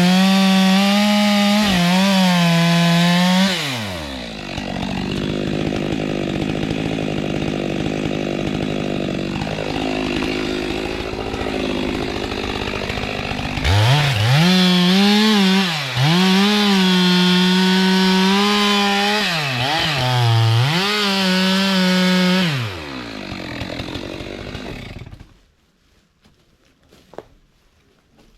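Stihl two-stroke chainsaw cutting kapok wood at high revs, its engine note dipping again and again as the chain bogs in the cut. In the middle stretch the note drops lower and rougher, then the saw revs high again before winding down and stopping about 25 seconds in, followed by a few sharp knocks.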